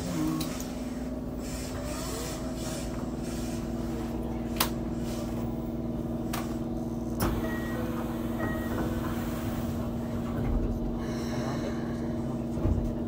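Inside a Keikyu 600-series electric train car in motion: a steady hum of unchanging pitch over the low rumble of the wheels on the rails, with a few sharp clicks.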